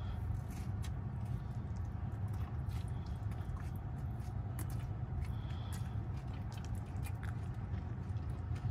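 A person biting into a beef burrito and chewing it, with soft wet mouth clicks and squelches scattered through. A steady low hum runs underneath.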